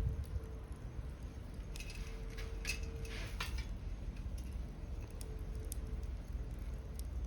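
Wood fire burning in a fire pit, crackling with scattered sharp pops over a low rumble, the pops coming thickest a couple of seconds in.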